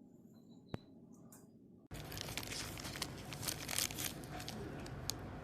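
Crinkling and tearing noise full of small crackles, starting abruptly about two seconds in, after a single sharp click.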